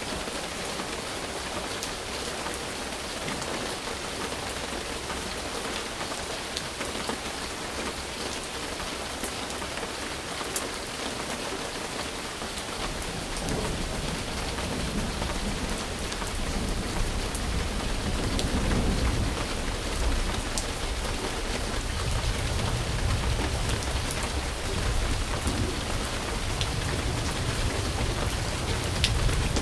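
Steady rain falling, with scattered drop ticks. About halfway through, a low rolling rumble of thunder builds in and carries on, making the storm louder.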